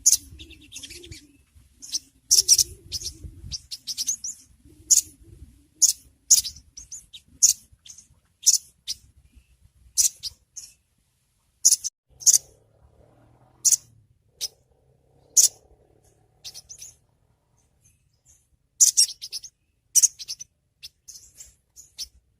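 Sogon (sogok ontong) bird giving short, sharp, high chirps, one or two notes about every half second to a second, with a pause of a few seconds past the middle.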